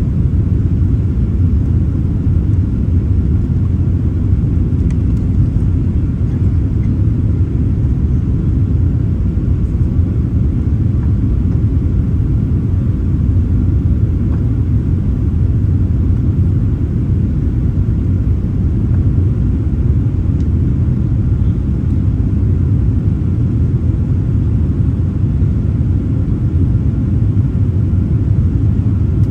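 Boeing 787-9 airliner during takeoff: a steady low rumble that holds even throughout.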